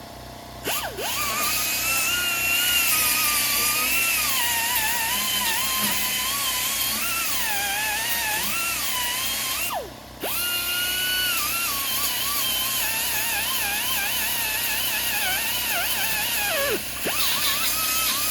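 Power grinder grinding down fresh welds on sheet metal, a loud whine that wavers in pitch as it bears on the metal. It is let off and spins down near the start, about halfway and near the end, each time picking straight back up. Background music plays underneath.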